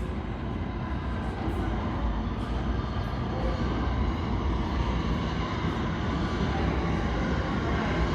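R142A subway train running along the track, a steady low rumble and hiss growing slowly louder.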